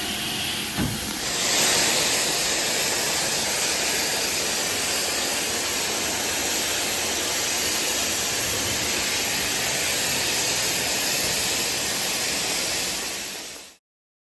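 LMS Black 5 steam locomotive venting steam in a steady, loud hiss that comes on suddenly about a second in and cuts off abruptly near the end.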